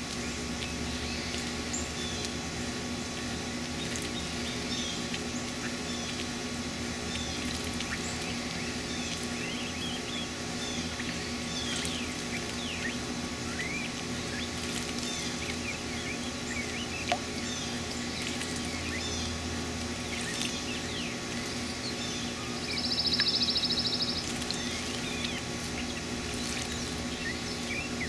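Birds chirping, many short high calls scattered throughout over a steady low hum. About 23 seconds in, a rapid buzzy trill lasting about a second stands out above them.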